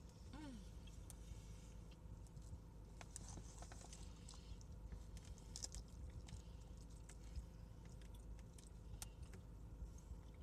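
Faint chewing and wet mouth clicks of someone eating, irregular and quiet, over a steady low hum.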